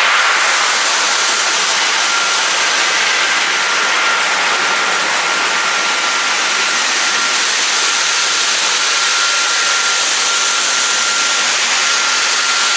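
Industrial bucket washing machine running, its spray nozzles giving a steady, loud hiss of water with a thin steady whine over it.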